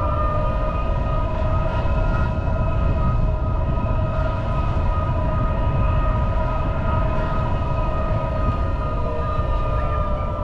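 Car driving on wet road: a steady low rumble of tyres and road noise, with a steady multi-tone whine over it that drops slightly in pitch near the end.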